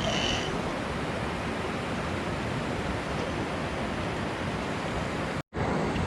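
Steady rush of flowing river water, with a brief high chirp just after the start. The sound cuts out for an instant about five and a half seconds in.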